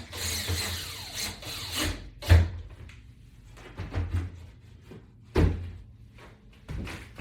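A power drill driving in a mounting screw for about the first two seconds, then a series of separate knocks and thuds as the mount is handled and tightened, the loudest about two and a half seconds in and another about five and a half seconds in.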